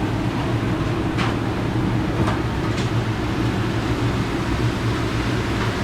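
Steady low hum and rush of commercial kitchen machinery running, with a few light clicks about a second in and again between two and three seconds in.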